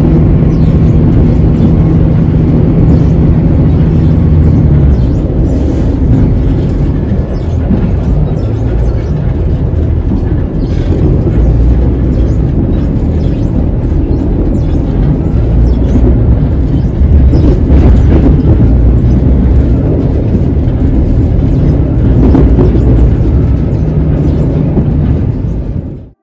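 Passenger train running, heard from inside the carriage: a loud, steady low rumble of wheels on rails with scattered clicks and rattles, and a steady hum for the first few seconds. The sound cuts off abruptly just before the end.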